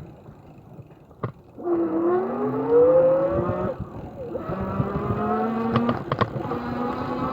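A 500 W rear geared hub motor on an electric bicycle humming under power. Its whine starts after a quiet first second and a half and rises in pitch as the wheel speeds up. It cuts out briefly about halfway through, then runs on at a steady pitch, with a few sharp clicks.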